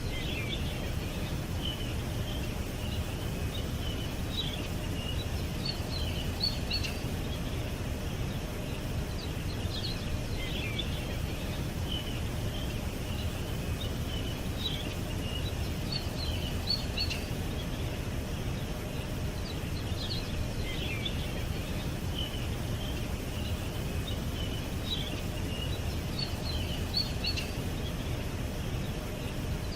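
Small birds chirping and twittering in short high clusters every few seconds, over a steady low background rumble.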